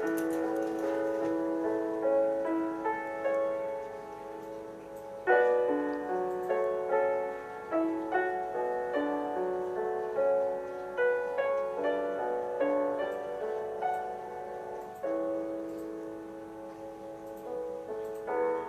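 Background piano music: a slow melody over held chords, with a fuller passage entering about five seconds in.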